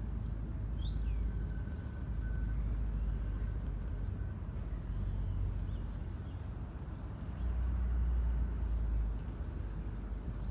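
Low, steady rumble that swells louder for a second or two near the end, with a brief faint high chirp about a second in.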